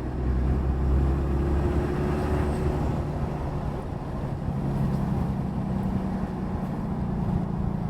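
6.7 L Cummins inline-six turbo-diesel of a 2022 Ram 2500, on its stock intake, running as the truck drives slowly, heard from the cab with the windows down along with road noise. The engine note shifts to a steadier, slightly higher pitch about four to five seconds in.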